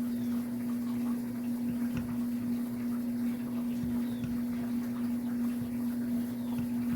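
A steady low hum throughout, with faint scattered soft pops from a pot of sliced bananas and sugar cooking on the stove.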